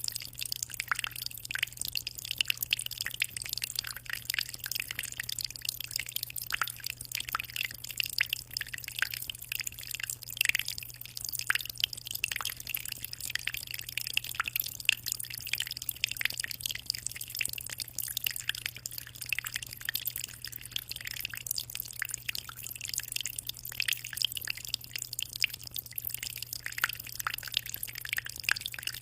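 Aquarium water splashing and trickling at the surface in a continuous patter of small drips and bubble pops, over a low steady hum.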